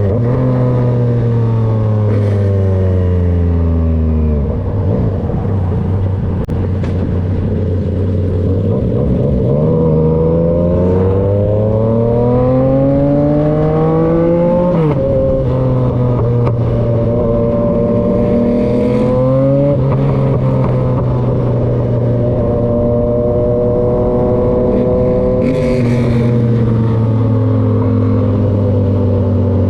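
Yamaha XSR900's three-cylinder engine through an SC-Project CRT aftermarket exhaust, heard while riding. The revs fall off over the first few seconds, then climb steadily for several seconds, drop sharply at an upshift about halfway through, pull again briefly and shift once more, then settle into a steady cruise.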